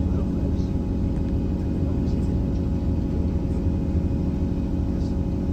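Diesel passenger train's steady low rumble with an even engine hum, with a few faint light ticks.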